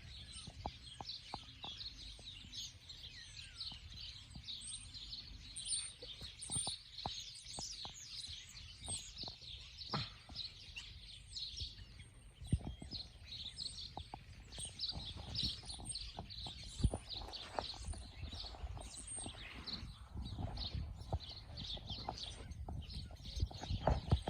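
A flock of small birds chirping and twittering together without pause, many calls overlapping, over a low outdoor rumble with occasional soft knocks.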